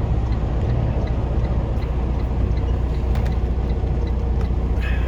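Semi truck's diesel engine idling, heard from inside the cab as a steady low rumble, with faint, evenly spaced ticking above it.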